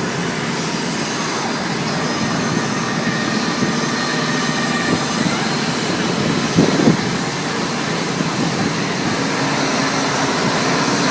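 Steady mechanical drone of a machine, with a few held tones, slowly growing louder. A brief knock comes about two-thirds of the way through.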